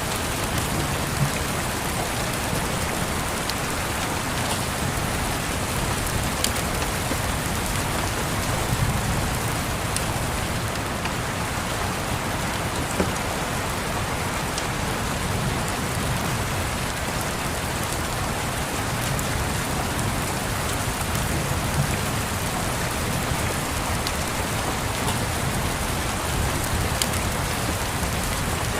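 Steady rain falling on a surface, with a few sharp pops scattered through it and a soft low rumble swelling now and then.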